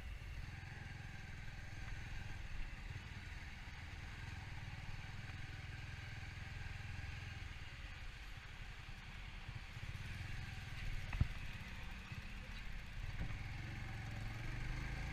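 Bajaj Avenger motorcycle's single-cylinder engine running steadily at cruising speed on the highway, a low even rumble, with one sharp click about eleven seconds in.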